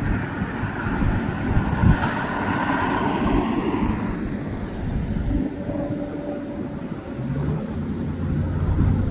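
Jet noise of an Airbus A380 taking off, a broad roar that fades after about four seconds, mixed with road traffic.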